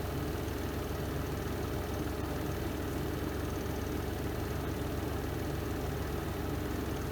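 Spin drum of a Renova semi-automatic twin-tub washing machine in its spin cycle, running steadily with a constant low hum.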